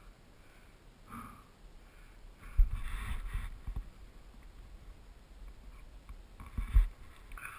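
A mountain biker's breathing: short puffs at a steady pace. About two and a half seconds in, and again near seven seconds, the loudest sounds are brief bouts of low rumbling and knocking.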